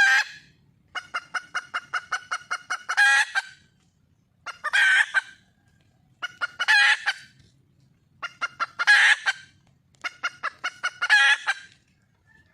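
Red junglefowl hen calling in repeated bouts. Each bout is a quick run of clucks that ends in a longer, louder squawk, about five times over: a wild hen calling for a mate.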